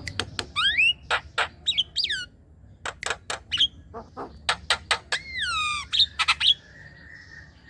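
Javan myna singing: a rapid string of sharp clicking and chattering notes mixed with rising and falling whistles, with one long downward-gliding whistle about five seconds in.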